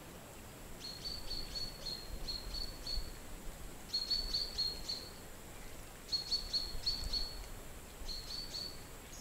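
A small bird singing: four short phrases, each a quick run of evenly repeated high notes at one pitch, with pauses of about a second between them.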